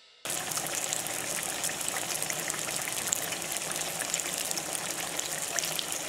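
Eggplant slices frying, a steady sizzle with fine crackles that starts abruptly just after the beginning.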